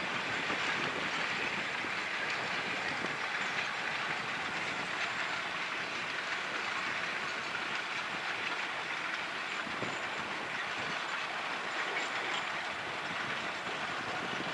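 Long narrow-gauge steam-hauled freight train heard from a distance: a steady noise of the rolling cars and wheels on the rails.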